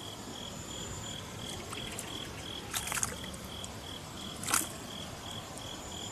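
An insect chirping in a steady, even pulse, about three chirps a second, over faint outdoor background. Two brief sharp clicks sound around the middle.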